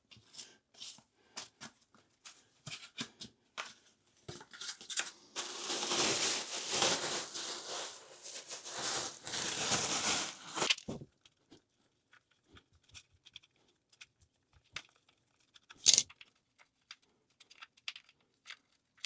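Rustling and scraping for about five seconds in the middle, with light clicks and taps around it and one sharp click near the end: hand work at a toilet floor flange as it is cleaned and the old closet bolts are taken out.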